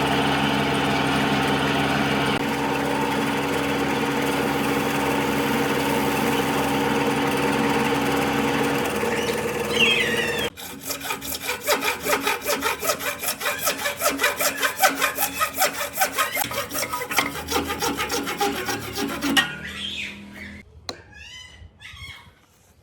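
A power tool's motor runs steadily and stops suddenly about ten seconds in. Quick, even back-and-forth strokes on wood follow for about nine seconds, then die away.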